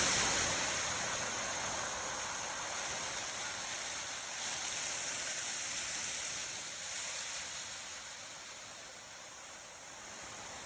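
Steady rushing hiss of a storm, easing off slowly toward the end.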